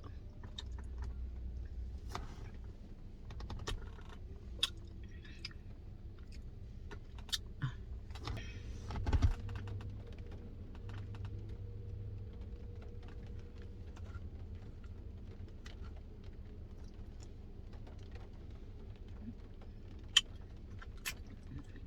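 Faint eating sounds: scattered small clicks and taps of a spoon working a Dairy Queen Blizzard cup, with a louder knock about nine seconds in.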